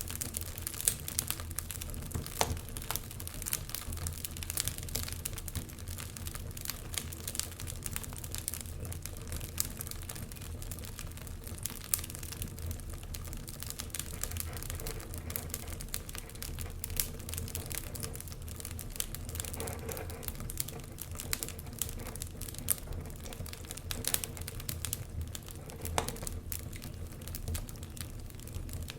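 Wood fire in a fireplace crackling, with a dense, irregular run of small pops and snaps and a few louder ones, over a steady low rumble.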